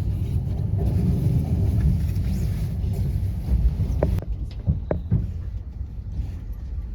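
Loud, steady low rumble, with a few light clicks about four to five seconds in.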